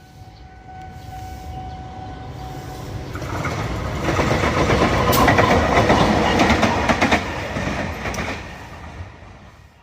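A train passing on the track. It grows louder, then the wheels clatter over the rail joints in a quick run of clicks at its loudest, and it fades away near the end. A faint steady whine sounds in the first few seconds.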